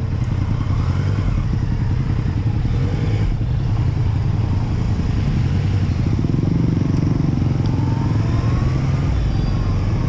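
Yamaha MT-09's three-cylinder engine running under way, recorded onboard, with a loud, steady low rumble of wind and road noise.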